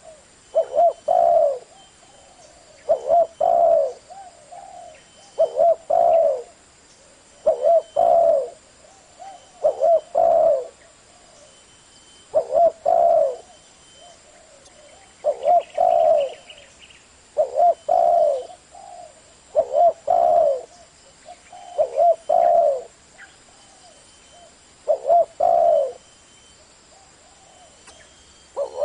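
Spotted dove with a deep 'thổ' voice cooing over and over: a phrase of two or three low coos about every two seconds. It is the kind of call used to draw wild doves in.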